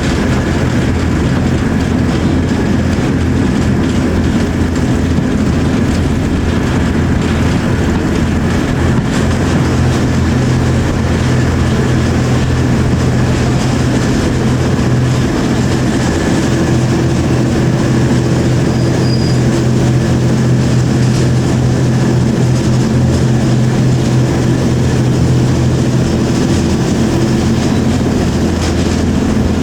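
Diesel locomotive engine running steadily as it hauls a train, heard from the carriages behind it, with the running noise of the train on the track.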